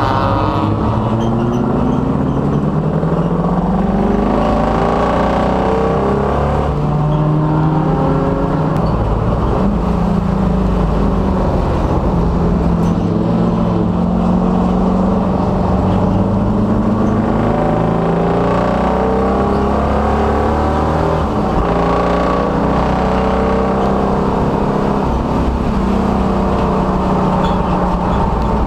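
A 1966 Dodge Dart race car's engine running hard on track, its revs climbing and then dropping again and again as it accelerates, shifts and slows for corners.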